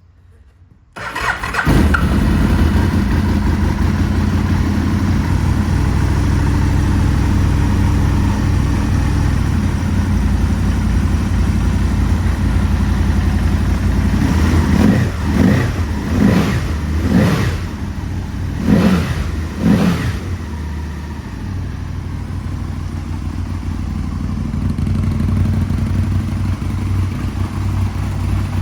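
2000 Aprilia RSV Mille R's 998 cc V-twin engine, fitted with an Akrapovič end can, starting about a second in and idling, then blipped five times about halfway through before settling back to idle. It sounds healthy, really nice and tight.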